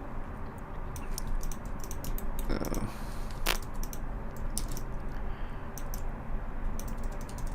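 Computer keyboard keys clicking in quick, irregular clusters over a steady low hum, with a brief soft noise a little over two seconds in.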